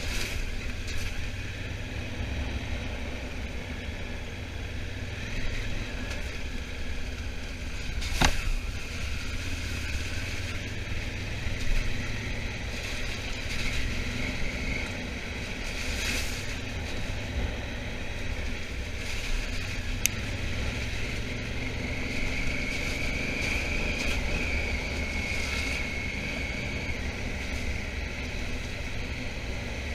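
Honda Africa Twin motorcycle being ridden, its engine running steadily under heavy low wind rumble on the microphone, with a couple of sharp clicks.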